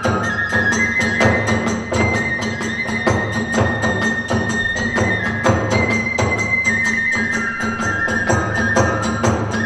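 Kagura hayashi music: a bamboo flute playing a melody in long held notes over a fast, steady beat of drums and small hand cymbals.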